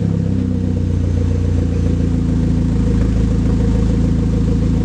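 Hyundai Genesis Coupe 2.0T's turbocharged four-cylinder idling steadily through a muffler-deleted exhaust, just after start-up, with a fast, even pulse.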